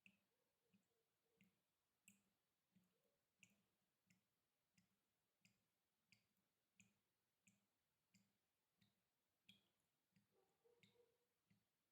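Water dripping in a steady rhythm, about three drops every two seconds, each a short faint plip; around a second in and again near the end a few drops ring briefly with a hollow tone.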